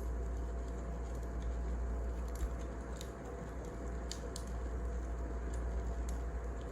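Wood fire crackling: scattered sharp pops and snaps over a steady low hum.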